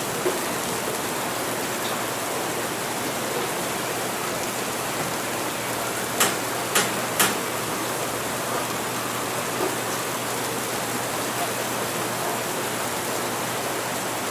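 Steady rain falling, an even hiss throughout. About six seconds in, three short sharp clinks come in quick succession.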